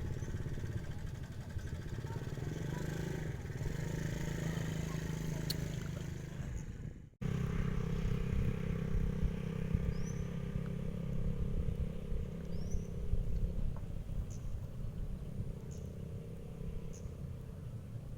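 A small engine running steadily, cut off by an edit about seven seconds in and then running again before easing off near the end, with a few faint high chirps.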